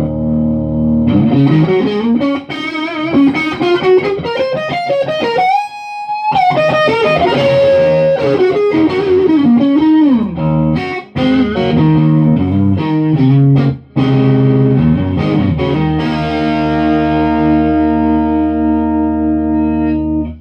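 Electric guitar with Lindy Fralin high-output pickups played through distortion: a held chord, then a lead run climbing to a high note that wavers with vibrato, followed by descending phrases and chords, and a long held chord that cuts off suddenly at the end.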